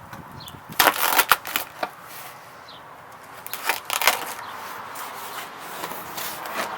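Packaging and parts being handled and opened by hand: a few sharp clacks and knocks, bunched about a second in and again around four seconds, between softer rustling.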